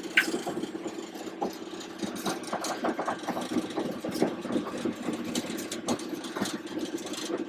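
Class 31 diesel-electric locomotive's English Electric V12 diesel engine running steadily at low power, heard from the cab, with frequent irregular knocks and rattles over the hum.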